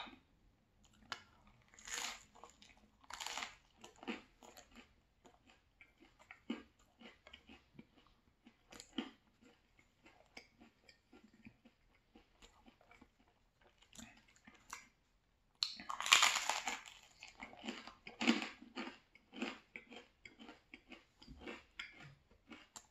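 A person chewing and crunching a slice of pepperoni pizza, with short crackly crunches throughout. There is a louder run of crunching about two-thirds through.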